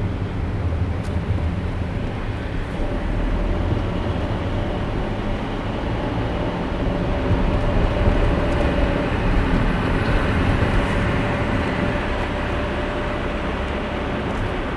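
Car driving on a highway: steady road and tyre noise over a low rumble, swelling a little for a few seconds in the middle.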